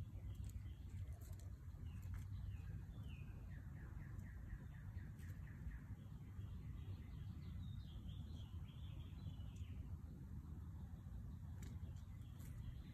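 Songbirds calling in the background over a low steady rumble: a quick run of repeated notes about four seconds in, then a warbling song from about six to ten seconds.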